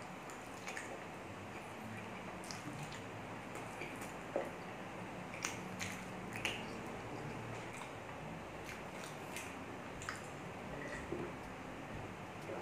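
A person chewing pork ribs caldereta with rice, eaten by hand: scattered soft wet mouth smacks and clicks over a steady low background hiss.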